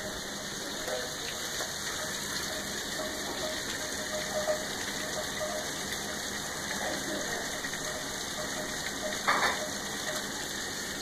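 Heavy rain pouring down steadily, with one short knock about nine seconds in.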